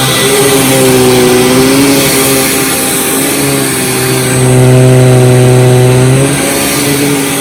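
Hoover WindTunnel Supreme upright vacuum cleaner running on carpet, its motor humming steadily with the pitch wavering slightly and the brush roll agitating the pile; it gets louder for a couple of seconds past the middle. The brush roller is very aggressive.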